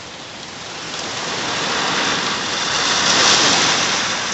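Heavy rain, its hiss swelling from about a second in to a peak near three seconds, then easing slightly.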